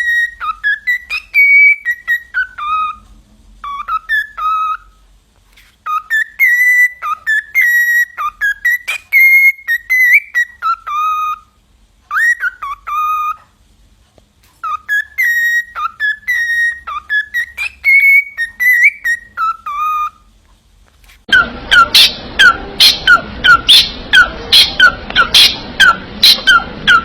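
Parrot whistling: phrases of clear notes gliding up and down, broken by short pauses. From about 21 seconds in, it switches to a quick run of short falling whistles, about two a second, over a noisier background.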